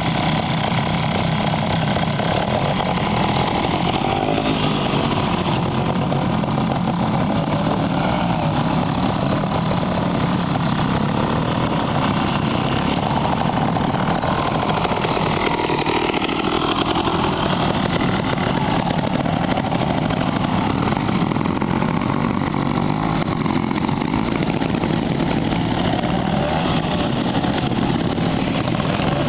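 Trials motorcycle engines running, mostly at idle, with the revs rising and falling now and then.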